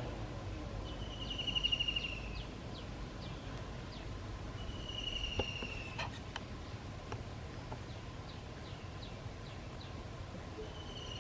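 A bird calling: a drawn-out whistle that falls slightly in pitch, given twice, with short chirps between. A few sharp clicks near the middle.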